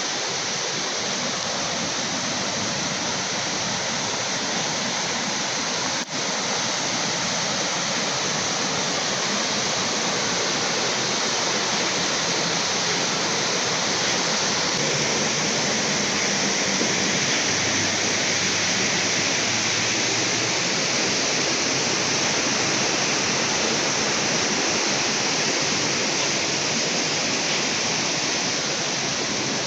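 Steady rushing of flowing river water, an even noise with one very brief drop about six seconds in.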